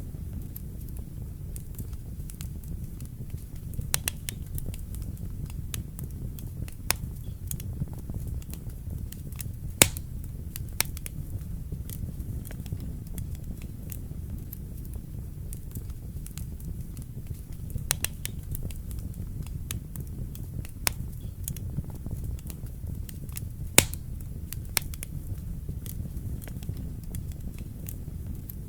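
Wood fire burning in a fireplace: a steady low rumble of flames with irregular sharp crackles and pops, two of them louder, near ten seconds in and near the end.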